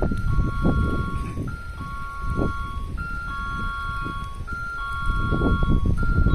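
521 series electric train pulling into the platform: low rumble with scattered wheel knocks. Over it, a two-note electronic warning tone alternates high and low about every three quarters of a second.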